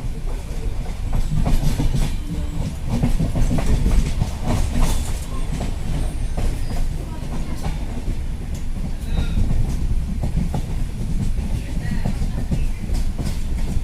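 Moving train running steadily, with a heavy low rumble and the irregular clatter of its wheels over the rail joints.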